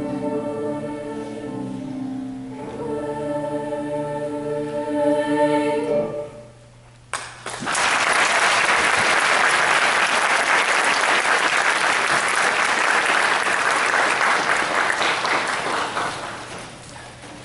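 A school choir sings the closing phrase of a song and stops about six seconds in. After a brief hush, the audience breaks into applause that fades away near the end.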